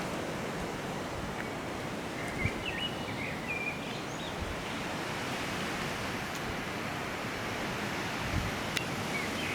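Steady outdoor background noise, an even rushing hiss, with a few brief high chirps about two to four seconds in.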